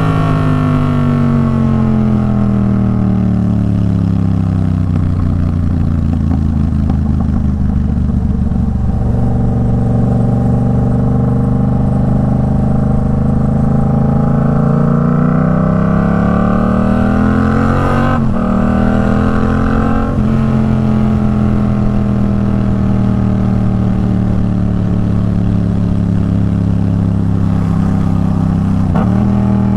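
Yamaha MT-07 parallel-twin engine running through an aftermarket Arashi exhaust while riding. The revs fall over the first several seconds, hold steady, then climb to a gear change about eighteen seconds in, with another change near the end.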